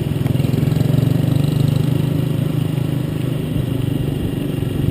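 Motorcycle engine running steadily, a rapid even putter that eases off slightly about three seconds in.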